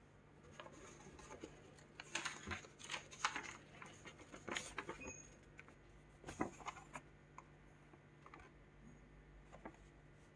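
Faint scattered clicks, taps and rustles of small objects being handled, busiest in the first two-thirds and then thinning out, over a steady low hum.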